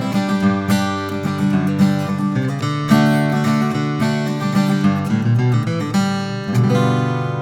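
Martin 00-15M all-mahogany steel-string acoustic guitar played solo: a run of plucked notes and chords, ending on a chord left to ring out near the end.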